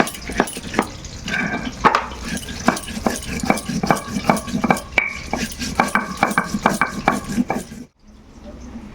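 Shil nora stone muller grinding whole cumin, black pepper and coriander on a flat stone slab: a fast, steady run of stone-on-stone knocking and grinding strokes, several a second, which stops abruptly near the end.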